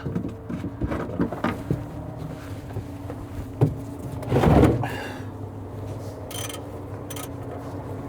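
Scattered clicks and clinks of hand tools on metal while loosening the oil drain plug under a semi truck, with a louder brief noise about four and a half seconds in. A steady low hum runs underneath.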